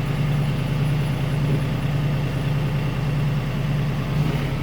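Kioti RK37 tractor's diesel engine running steadily at a low, even speed.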